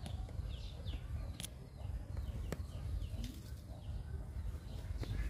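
Birds chirping in short falling notes, repeated several times, over a steady low rumble, with a few sharp clicks.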